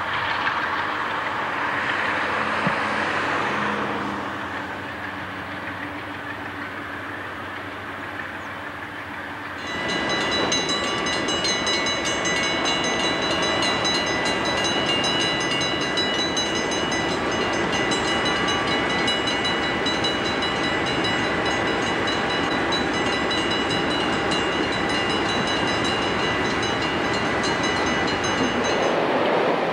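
A freight train running in the distance, then, about ten seconds in, a much louder CSX diesel locomotive and its train close by: a steady rumble with a high-pitched whine of several steady tones above it.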